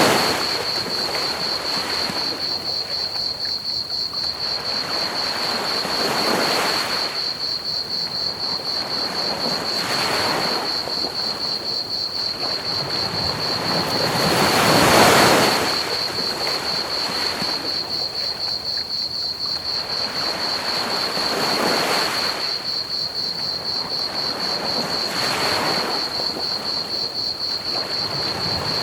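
Ocean waves breaking and washing up a beach, swelling and falling every few seconds, with the biggest one about halfway through. Crickets chirp in a steady high trill throughout.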